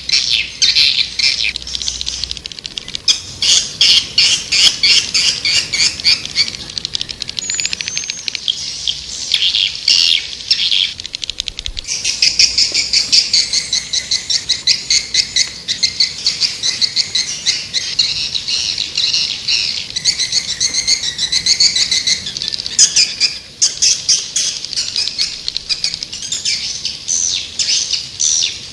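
Swiftlets twittering: dense, rapid trains of high chirps and buzzy trills with no let-up, the kind of swiftlet call recording played to lure swiftlets to a nesting house.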